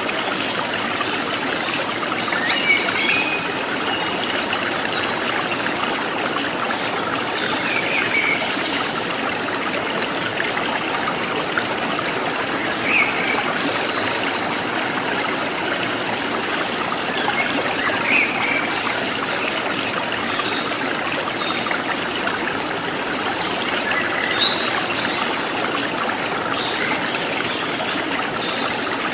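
Water trickling and babbling steadily over stones in a forest stream, with a short bird chirp every few seconds.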